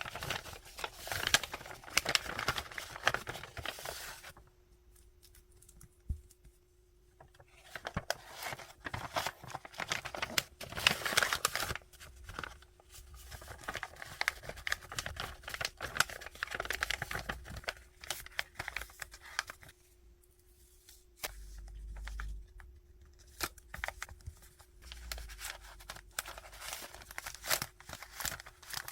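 Hands packing small paper goods: plastic and paper packaging crinkling and rustling, with tape tearing and short clicks and taps. It pauses twice, about four seconds in and again about twenty seconds in, over a faint steady hum.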